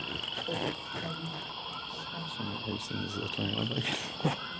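A steady high-pitched insect trill, with two short faster pulsing trills near the start and again about three seconds in, over faint distant talk.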